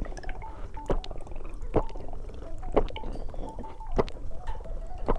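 Close-up chewing of a tyre-shaped candy: wet mouth sounds with a sharp smack about once a second.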